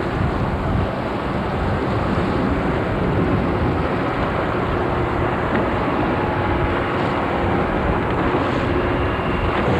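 Motorboat engine running steadily, a constant drone and rush with no breaks.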